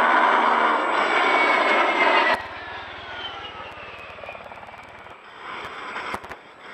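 A-10 Thunderbolt II jet passing low, its twin turbofan engines loud. The sound drops off abruptly about two seconds in, leaving a fainter whine that falls in pitch as the aircraft moves away.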